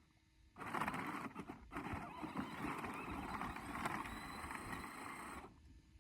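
Electric kids' ride-on toy tractor's motor and gearbox whirring as it drives. It starts about half a second in and stops near the end.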